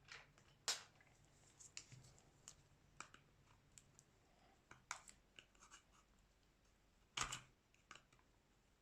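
Faint, scattered clicks and light scraping of small hand tools against a Xiaomi Redmi 9A phone's plastic and glass parts during a screen replacement. A sharper click comes just under a second in, and a louder one about seven seconds in.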